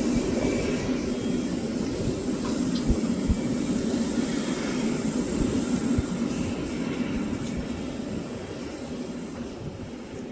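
Jet engines of an Airbus A320neo airliner climbing away after a go-around, a steady low-pitched engine noise that fades over the last few seconds.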